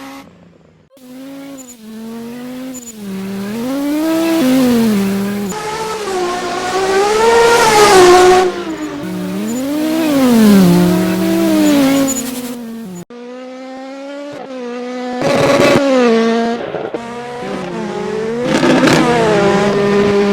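Rallycross cars racing at full throttle, their engine notes climbing and dropping again and again with gear changes and lifts as they pass. A sudden cut about two-thirds of the way through, then another car revs hard past.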